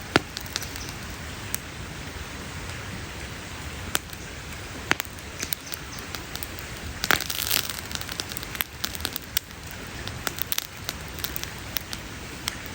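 Wood campfire crackling: irregular sharp pops and snaps over a steady hiss, with a quick cluster of pops about seven seconds in.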